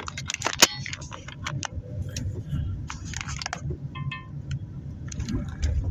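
Road noise inside a moving car's cabin, a steady low rumble, with frequent small clicks and rattles over it; a sharp click about half a second in is the loudest.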